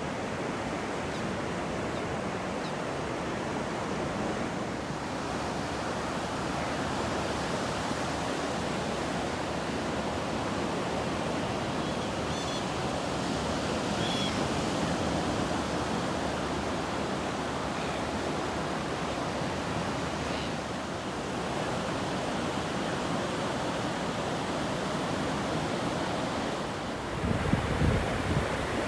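Steady wash of ocean surf with wind. A few faint, short high chirps come through around the middle, and near the end wind buffets the microphone with low thumps.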